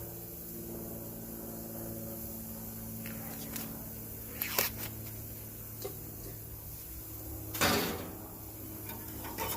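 A few sharp clicks and knocks of handling things at a grill, then one louder scraping clatter about eight seconds in, over a steady low hum.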